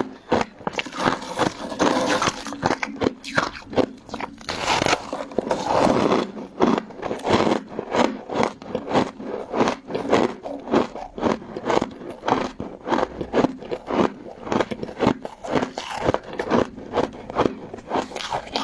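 Close-miked crunching and chewing of crystal ice and jelly: a rapid run of sharp, crisp crunches, several a second, thickening into denser crunching for a moment about two seconds and five seconds in.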